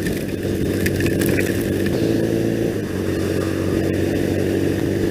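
2001 Triumph Bonneville's parallel-twin engine running at a steady cruise, its pitch holding level, with wind rushing past the rider.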